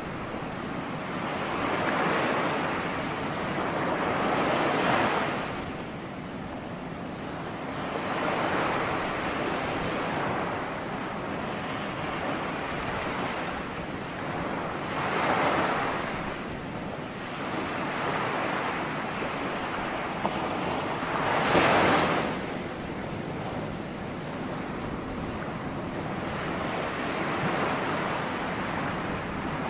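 Ocean waves breaking on a shore, each surge swelling and ebbing every few seconds, the loudest near the two-thirds mark.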